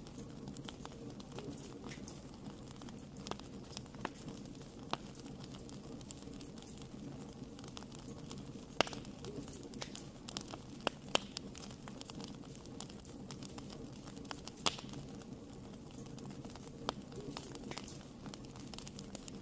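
Wood fire burning in a fireplace: a steady low rumble with irregular sharp crackles and pops, the loudest a few pops in the middle of the stretch.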